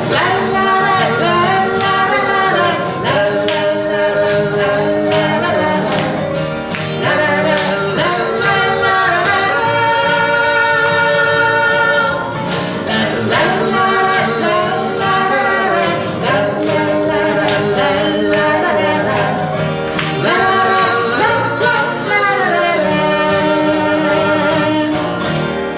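A folk song performed live as a duet: voices singing long held, gliding notes, some with vibrato, over instrumental accompaniment.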